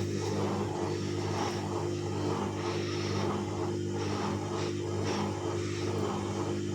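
Bauknecht WAS 1400 washing machine running: a steady electric hum from its motor or pump, with irregular swishing noises over it.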